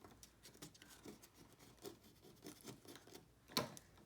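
Faint rustling and scratching of book-page paper being handled and pressed down while collaging, with one sharper click about three and a half seconds in.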